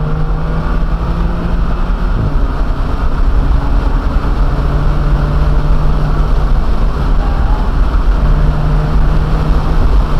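BMW M2 Competition's twin-turbo inline-six running hard at track speed, heard from inside the cabin with heavy road and wind rumble. The engine note holds steady for stretches, breaking briefly about two seconds in and again a little past the middle.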